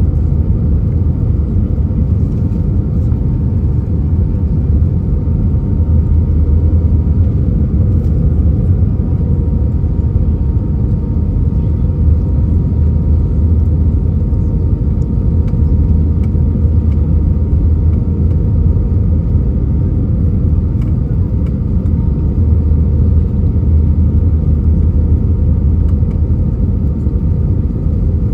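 Steady cabin rumble inside an Airbus A319 airliner: engine and airflow noise with a faint steady whine above it.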